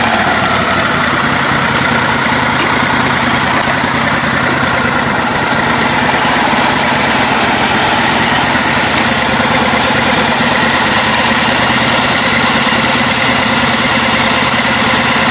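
Engine of a lifted, modified riding lawn tractor running at a steady, even speed.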